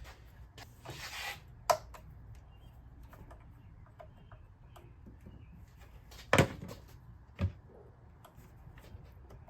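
Hand work on an engine's ignition coils: a brief scrape, then a few sharp clicks and knocks, the loudest about two-thirds of the way through, as coils are unclipped and pulled off.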